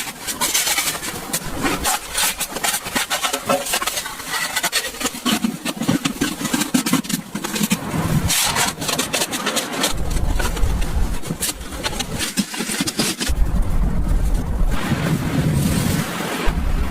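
Wind gusting against the microphone in heavy low rumbles, over a busy run of rubbing and clicking noises.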